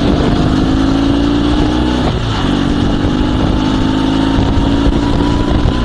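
Dnepr MT-16 sidecar motorcycle's flat-twin boxer engine running under way, now working again after cutting out. Its pitch climbs steadily, breaks briefly about two seconds in, then climbs again.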